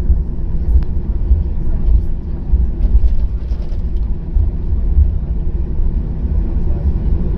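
Steady low rumble of a Boeing 737-800's CFM56-7B engines and airframe, with no rise in pitch or loudness.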